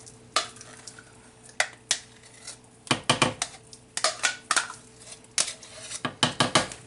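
A utensil clinking and scraping against a pan and a small bowl in irregular clusters of sharp clicks, as tempered sour cream is added to a cream sauce and stirred in.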